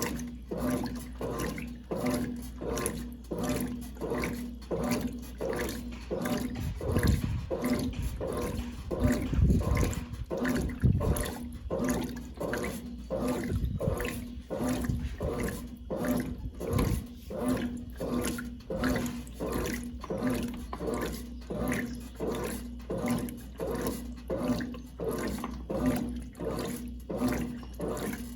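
Brastemp Clean 5 kg top-loading washing machine from 1996 agitating: water sloshing in the tub in an even rhythm of about one and a half strokes a second, over a steady hum. The low surges are heavier for a few seconds in the middle.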